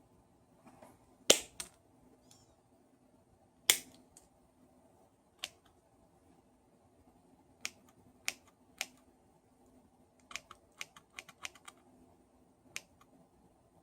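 Scattered sharp clicks and taps of small parts and hand tools being handled during a power-tool repair. Two loud clicks come in the first four seconds, then a few lighter single clicks, and a quick run of light clicks about ten to twelve seconds in.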